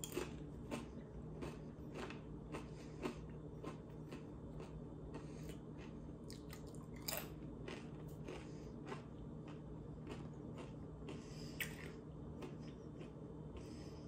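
A person chewing a mouthful of tortilla chip with guacamole: quiet, irregular crunches, several every few seconds. A low steady hum runs underneath.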